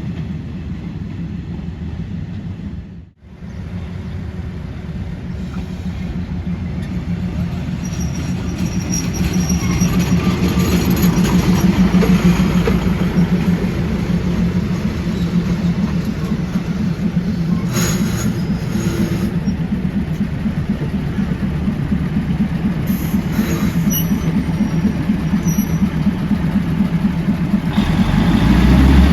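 Train running along the track: a steady rumble of wheels on rails, with faint high wheel squeals now and then. The sound drops out briefly about three seconds in.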